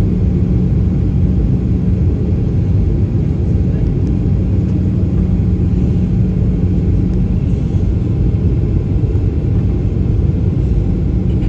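Cabin noise inside a Boeing 737-800 airliner: a steady low rumble with a constant hum running through it.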